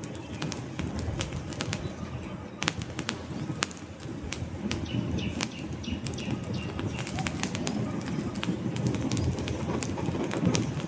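Wood fire burning in a fireplace: frequent sharp crackles and pops of burning logs over a steady low rumble of the flames.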